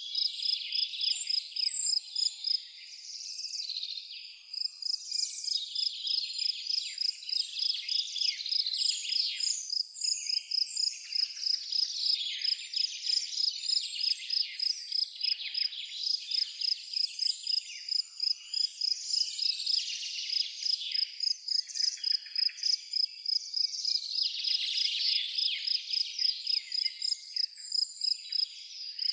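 Evening nature ambience: a cricket chirping steadily, a high pulsed note repeating a few times a second, under many small birds' chirps and trills.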